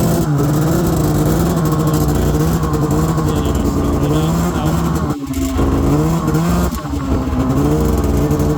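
Snowmobile engine running at a fast idle, its pitch rising and falling with throttle blips, briefly dropping away twice in the middle.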